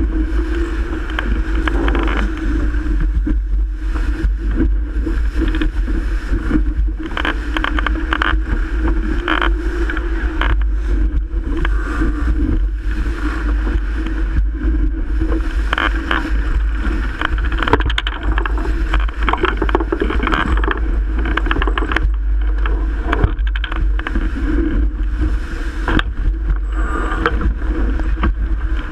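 Strong wind buffeting the microphone over rushing water, as a Melges 24 sailboat sails in 30+ knot winds, with a constant low rumble and frequent short gusty thumps.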